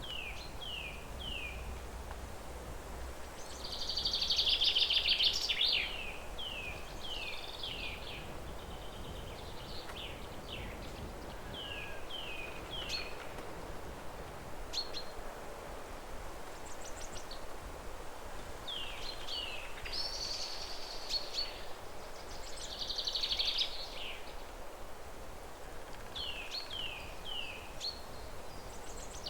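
Forest songbirds singing: short falling whistled notes, often three in a row, with louder bursts of fast trill now and then. Under them is a steady hiss of leaves rustling in the wind.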